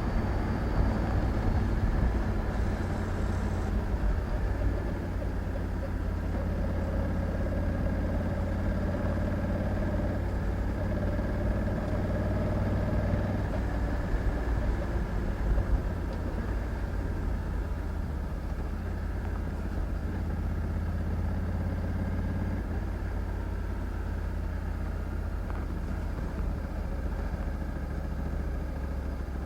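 Honda Africa Twin 1100 DCT's parallel-twin engine running steadily at fairly constant revs.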